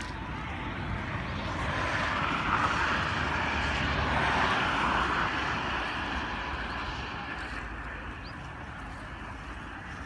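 A passing vehicle: a steady noise that builds over a couple of seconds, is loudest about four seconds in, then fades away.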